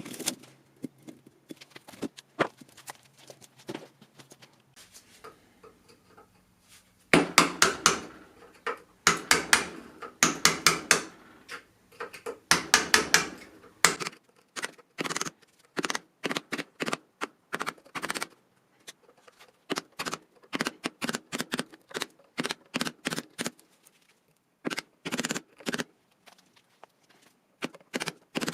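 Irregular sharp clicks and knocks, like things being handled and struck, with denser, louder clattering runs about a quarter to halfway through.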